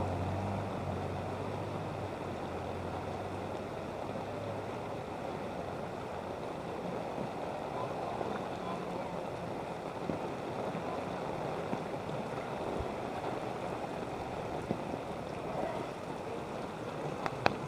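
Steady rush of floodwater sloshing and flowing in a flooded street, with a low vehicle hum fading out over the first few seconds and a few sharp clicks near the end.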